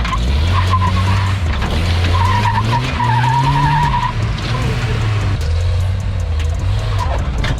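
Off-road vehicle engine revving under load, with the tyres spinning and scrabbling on dirt and rock, and scattered clicks of stones. The engine pitch climbs about three seconds in, then drops back.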